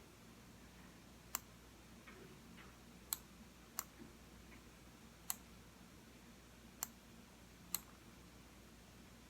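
Computer mouse button clicking: six single, sharp clicks at uneven intervals, with a few much fainter ticks between them.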